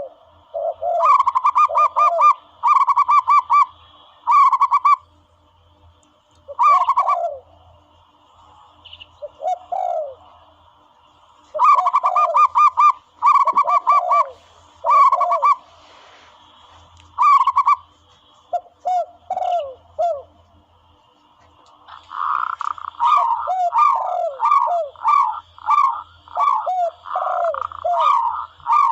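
Recorded zebra dove calls played as a hunting lure: runs of rapid, staccato cooing notes, interleaved with lower downslurred coos. The calls come in bursts with short pauses, and grow denser and almost continuous near the end.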